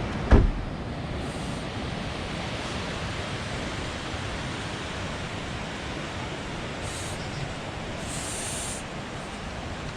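Waterfall rushing: a steady, even roar of falling water, with a brief thump just after the start.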